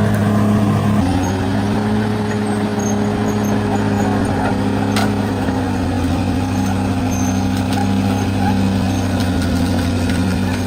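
Bulldozer's diesel engine running steadily under work, its note shifting about a second in, with a single sharp click about halfway through.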